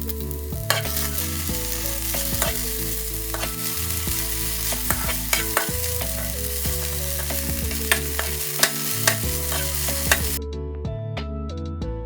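Food sizzling in a hot pan while being stirred, with sharp clicks of a utensil against the pan. The sizzle cuts off abruptly about ten seconds in.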